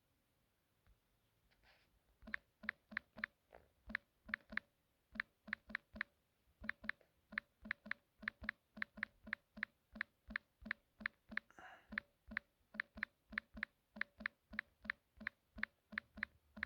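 Key clicks of a phone's touchscreen keyboard as a message is typed: a run of quick, even clicks, about three a second, with a couple of short pauses.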